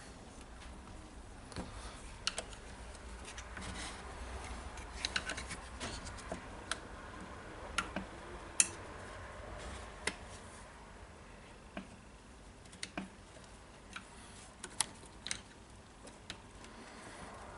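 Small irregular clicks and taps of wires and plastic parts being handled and fitted inside an opened cordless circular saw housing, over a faint low hum.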